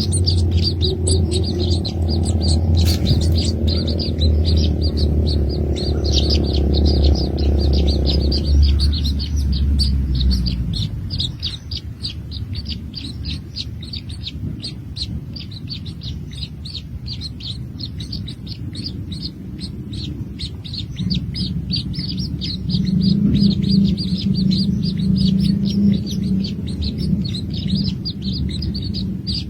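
Small birds chirping rapidly and continuously: high-pitched chirps, several a second. For the first ten seconds or so they sit over a steady low hum, which then stops.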